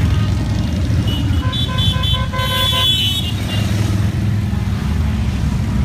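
A procession of motorcycles passing with a steady low engine rumble, and horns honking in short repeated beeps from about one to three seconds in.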